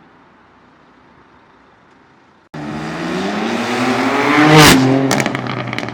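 A sports car accelerating hard past, its engine note climbing to a peak as it goes by and then dropping away, with several sharp cracks near the end. Before it starts there is a faint steady engine hum.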